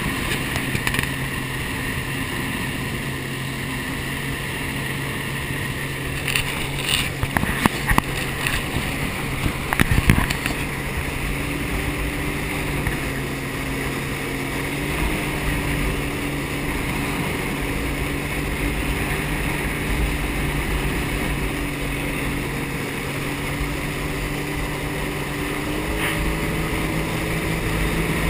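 Jet ski engine running steadily at speed, with a cluster of sharp knocks between about six and ten seconds in. The engine's pitch steps up a little about eleven seconds in and again near the end.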